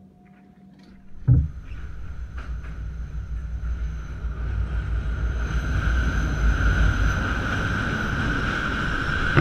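A train crossing a steel truss railroad bridge overhead: after about a second of quiet, a low rumble starts suddenly and builds steadily louder, with a steady high-pitched tone running above it.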